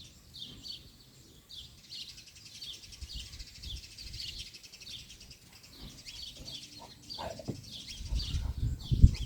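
Small birds chirping, short high downward chirps repeating a few times a second, with low rumbling noise near the end.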